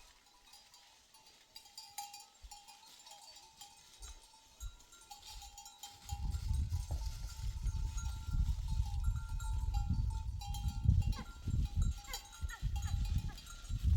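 Bells on a herd of sheep and goats ringing, with a few bleats. From about six seconds in, a loud, uneven low rumble sets in.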